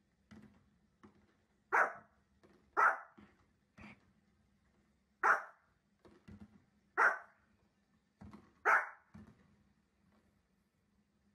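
Small fluffy dog barking at fireworks on the television: five loud single barks, one to two seconds apart, with fainter sounds in between.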